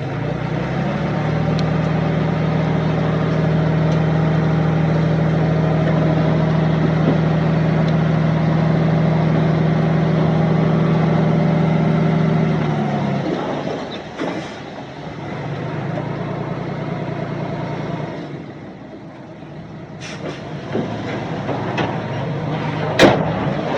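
Heavy machinery diesel engine running steadily and strongly for about twelve seconds, then dropping away to a quieter running note, with a sharp knock near the end.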